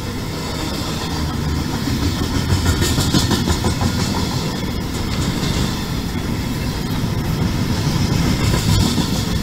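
Double-stack container well cars of a freight train rolling past: a steady rumble of steel wheels on the rails, with wheel clicks at the rail joints.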